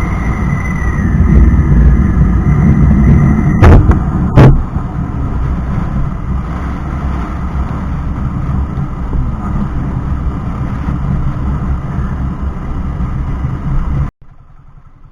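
Motorcycle ride: the engine running under a heavy rushing noise, with two sharp knocks about four seconds in. About a second before the end the sound drops suddenly to a quiet, low pulsing.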